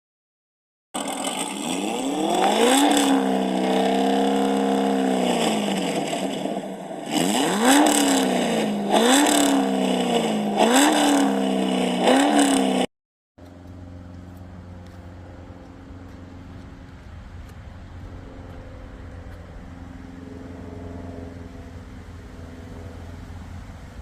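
1977 Pontiac Grand Prix SJ's 350 cubic-inch V8 being revved. There is one long rev that rises, holds for a few seconds and falls, then four quick blips of the throttle. After a sudden cut near the middle, the engine runs steadily and more quietly, as at idle.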